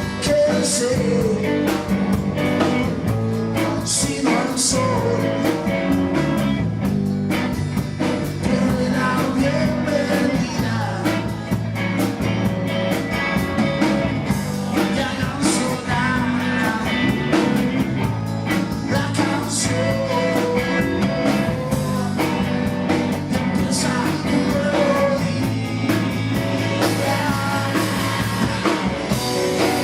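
Live band playing a song with guitar and drums, a melody line wavering over the steady accompaniment.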